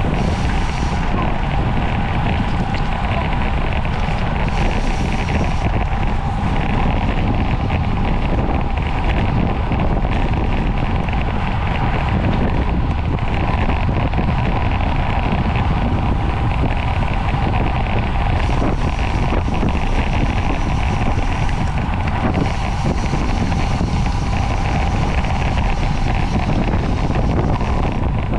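Wind rushing over the microphone of a camera on a bicycle ridden at racing speed: a steady, unbroken rumble.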